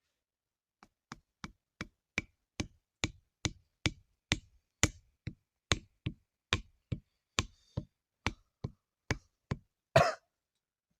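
A steady run of sharp knocks, about two and a half a second, growing louder over the first few, then one louder, heavier knock near the end.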